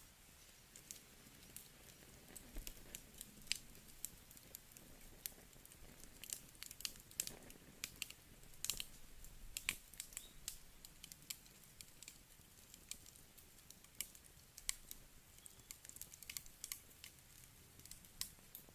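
Wood campfire crackling: irregular sharp snaps and pops, several a second, over a faint steady background.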